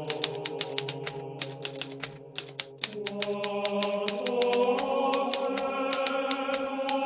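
Hermes Baby portable typewriter being typed on: a fast run of sharp key strikes that thins out briefly about two to three seconds in. Under the typing, held droning tones shift pitch about three and four seconds in.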